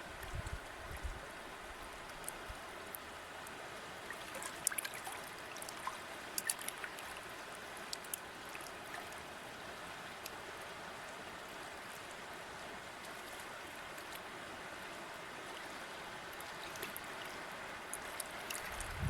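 River water flowing steadily, with small splashes and trickles now and then, most between about four and nine seconds in. A few low thumps in the first second.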